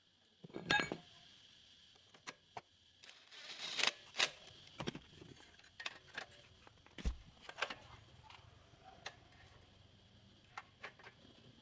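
Scattered metallic clicks and clinks of small metal objects being handled and set down, loudest just under a second in and around four seconds, with a dull thump about seven seconds in.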